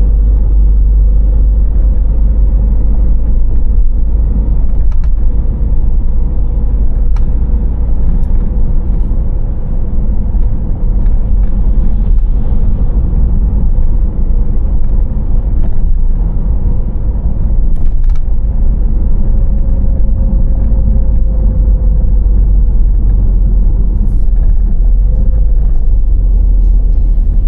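Car on the move: steady low road rumble with tyre and wind noise, and a few light clicks.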